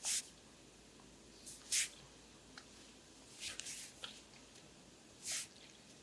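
Hands stroking oiled skin during an abdominal massage: four short swishing strokes, about one every one and a half to two seconds.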